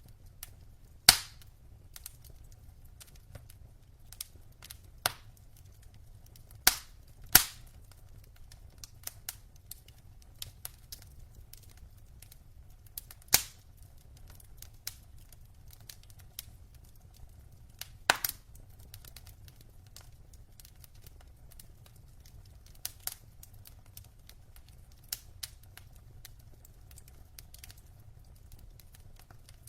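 Burning logs in a fireplace crackling, with irregular sharp pops: about five loud snaps among many fainter crackles, over a faint low rumble.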